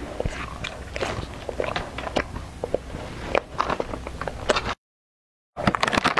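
Close-miked biting and chewing of a crisp, crunchy snack: many sharp, irregular crunches. The sound drops to dead silence for under a second near the end, then the crunching resumes.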